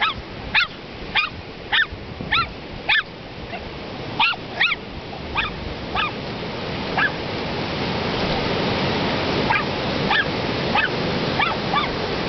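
A dog barking in short, high-pitched yips, in quick runs of several with pauses between, over the wash of surf that grows louder in the second half.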